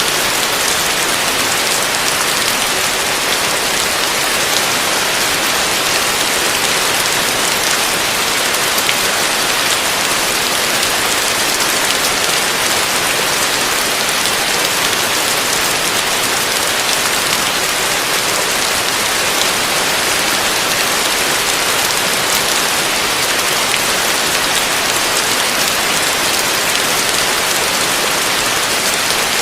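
Heavy rain falling steadily: a dense, even hiss of many drops, with no thunder.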